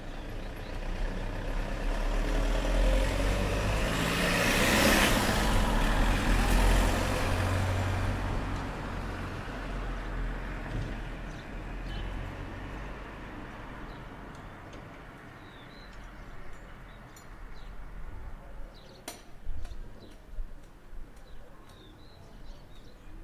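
A motor vehicle drives past: its engine and tyre noise with a deep rumble swells, is loudest about five seconds in, then fades away over the next several seconds. Later, short faint chirps and a few sharp clicks or knocks, one louder about nineteen seconds in.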